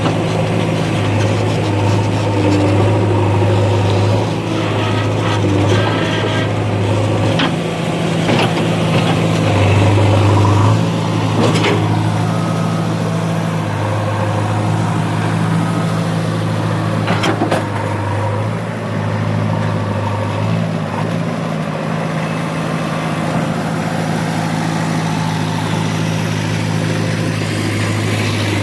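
Heavy machine's diesel engine running steadily with a deep, even hum that shifts slightly in load, with a few sharp clanks around the middle.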